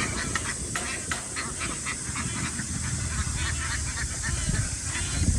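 A large flock of farm ducks calling, many short quacks overlapping throughout, over a low rumble.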